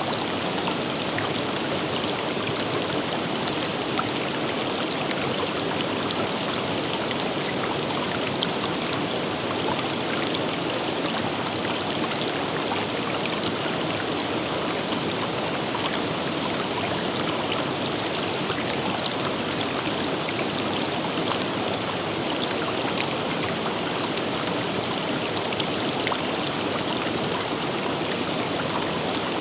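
A river running over rocks: a steady rush of flowing water with fine splashing and droplet patter throughout.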